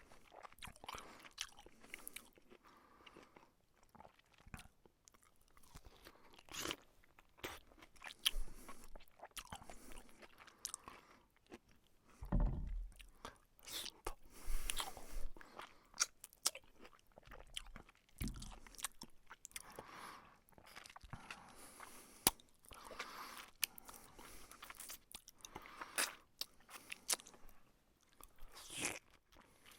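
A cat chewing and eating egg: a long run of soft, irregular clicks and smacks from its mouth. A couple of low thumps come in, about twelve and eighteen seconds in.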